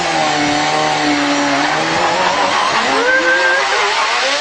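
Small motorcycle engine revving unevenly: its pitch drops, holds steady, then climbs and falls again as the throttle is worked.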